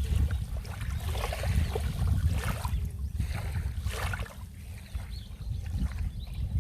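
Sea waves washing in and splashing, one surge after another a second or two apart, over a steady low rumble.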